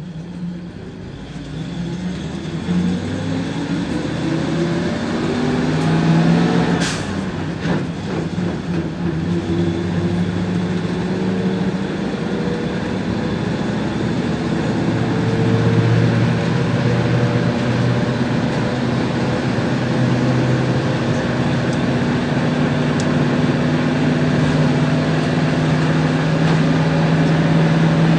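PAZ-32054 bus engine pulling away and accelerating, heard from inside the cabin. The engine note rises for about seven seconds, a sharp click comes with a gear change, and the note rises again before settling into a steady, louder drone.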